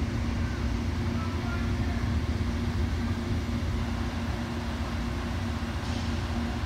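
Steady low rumble with a constant hum from an Amtrak Superliner passenger train standing at the platform, with a short faint hiss near the end.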